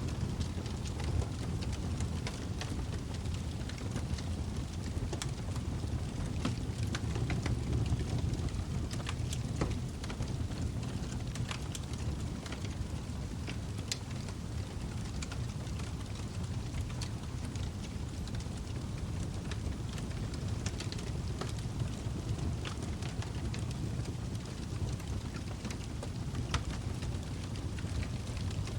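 Log fire burning: a steady low rumble of flames with frequent, irregular sharp crackles and pops from the burning wood.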